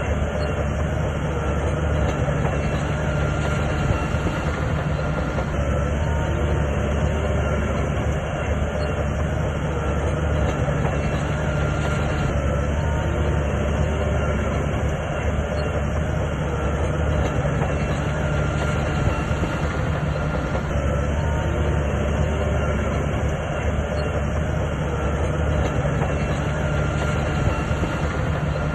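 SHANTUI crawler bulldozer's diesel engine running steadily under load, with the clatter of its steel tracks.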